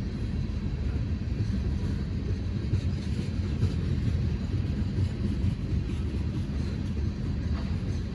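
Train rolling past on the rails, a steady low rumble without let-up.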